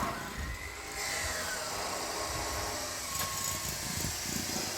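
A motor running steadily, with a loud hiss that sets in about a second in.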